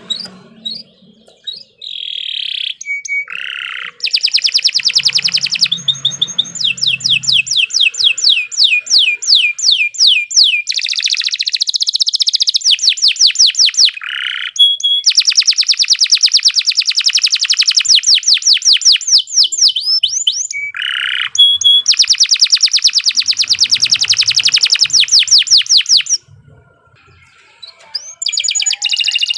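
Domestic canary singing long rolling trills: fast runs of many repeated high notes, changing from one run to the next, with a short pause near the end before it starts up again.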